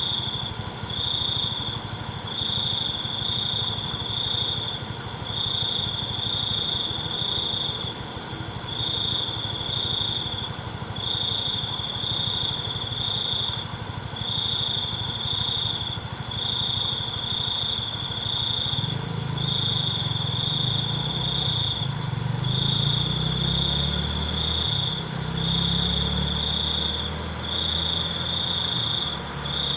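Night chorus of crickets: a high, pulsed chirping in repeated trains of about a second, each separated by a short pause, over steady higher-pitched insect trilling. From about two-thirds of the way in, a low rumble sits underneath.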